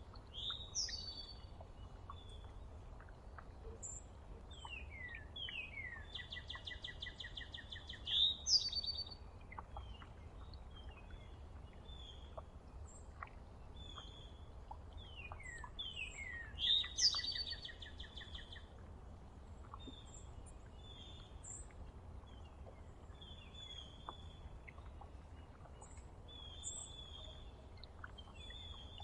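Songbirds singing and calling outdoors: repeated songs of quick down-slurred whistles running into fast trills, with two louder notes about a third and about halfway through, over a faint low rumble.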